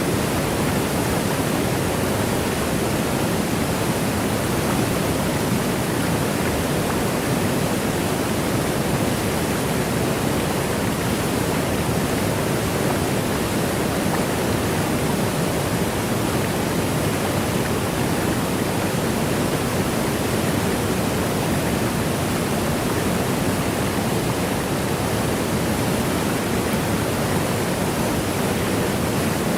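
Waterfall: the steady, unchanging rush of water cascading down.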